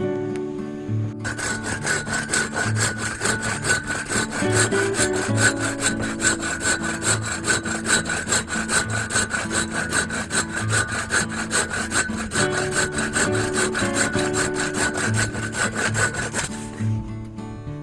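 Hand saw cutting through firewood in fast, steady back-and-forth strokes, several rasps a second. It starts about a second in and stops shortly before the end, with acoustic guitar music underneath.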